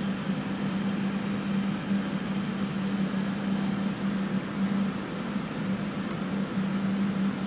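Air purifiers and a fume extractor running: a steady rush of air with a constant hum, loud enough that the fans are called "so loud".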